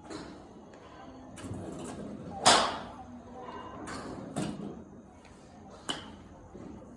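A golf club striking the ball: one sharp, loud crack about two and a half seconds in, followed by a couple of fainter knocks.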